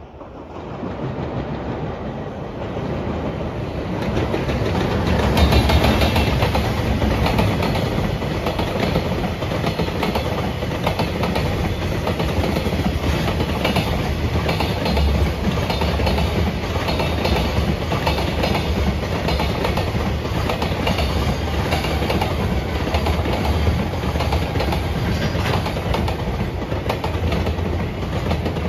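Freight train passing, its wagons' wheels clattering over the rail joints with a heavy rumble. It builds over the first few seconds, then holds steady.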